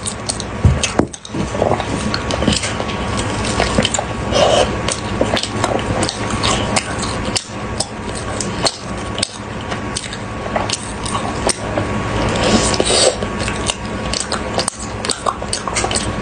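Close-miked chewing of a sticky chocolate-coated glutinous rice cake, with many small wet clicks and squelches from the mouth.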